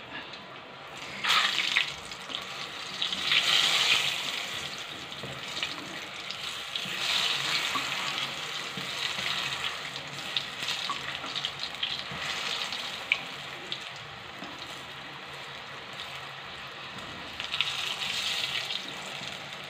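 Brinjal slices sizzling as they shallow-fry in vegetable oil in a nonstick kadai, with a spatula scraping and tapping against the pan as the slices are turned. The sizzle rises and falls several times.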